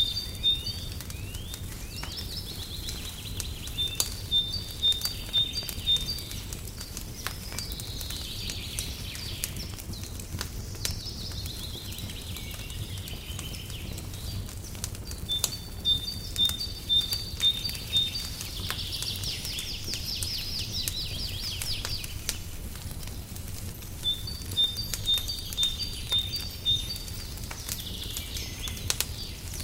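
Birdsong over a crackling fireplace. A bird repeats a quick run of five or six short, even, high notes several times, among warbling trills. Scattered sharp pops and crackles and a steady low rumble sit underneath.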